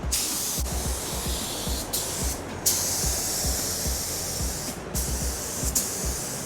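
Compressed-air paint spray gun hissing as it sprays, in long passes with brief stops where the trigger is released, about two, two and a half, and five seconds in.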